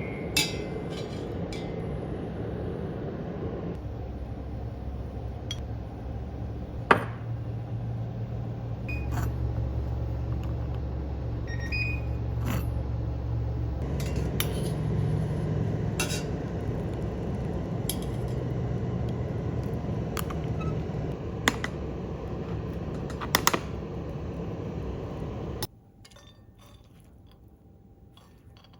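Kitchen work: scattered clinks and taps of dishes, glass and utensils over a steady low rumble, which cuts off suddenly near the end.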